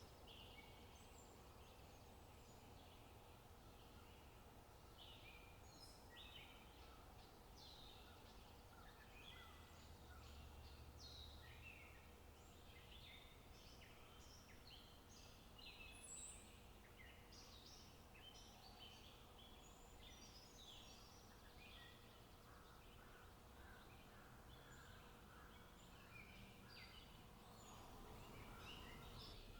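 Faint birdsong: many small birds chirping and calling in quick, scattered short notes throughout, over a low background rumble.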